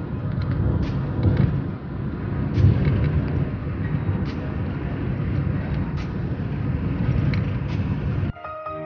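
Road and engine rumble inside a moving car's cabin, with occasional light clicks. It cuts off abruptly about eight seconds in.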